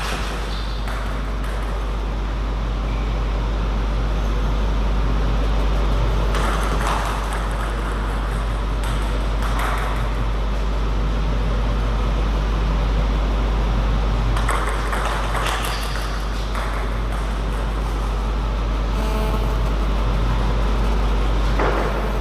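Table tennis ball striking a paddle or the table a few times, a few seconds apart, over a steady low hum.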